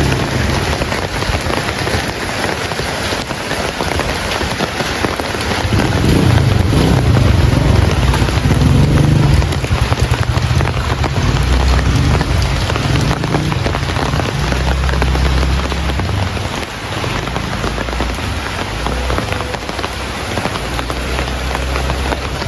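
Heavy rain falling steadily, a dense hiss of drops. A low rumble swells about six seconds in and fades out around sixteen seconds.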